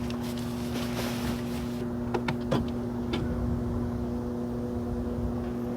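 A steady mechanical hum at one unchanging pitch over a low rumble, with a few light clicks and knocks about two to three seconds in.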